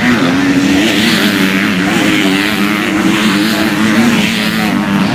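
Motocross motorcycle engines revving, their pitch rising and falling again and again.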